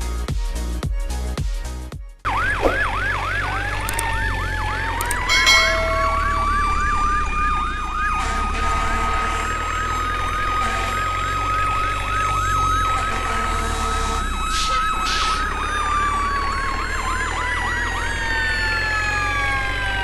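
A beat of music for about two seconds, then several sirens wailing together. A fast yelping warble runs over slow rising and falling wails, with a steady low hum beneath.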